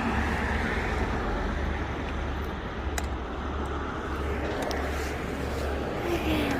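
Steady low rumble of a car and road noise, with a single sharp click about three seconds in.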